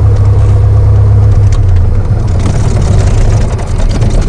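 Cessna 172K's piston engine running, a loud steady low rumble heard directly in the cabin.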